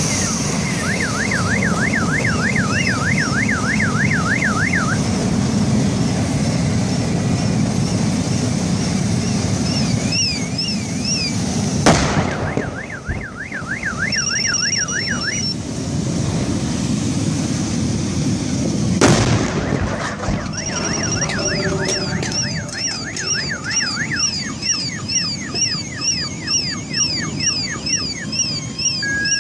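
Several car alarms sounding at once, fast warbling wails and stepped beeps in different patterns. Two sharp blasts from the exploding truck cut through them, about twelve seconds in and again about seven seconds later, over a steady low rumble.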